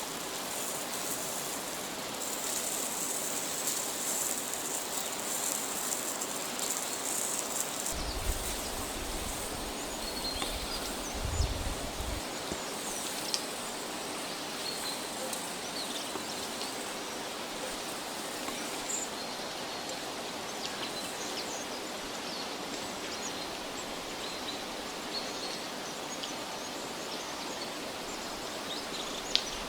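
Steady outdoor forest ambience: an even hiss with faint scattered high chirps, and a few low thuds about eight to twelve seconds in.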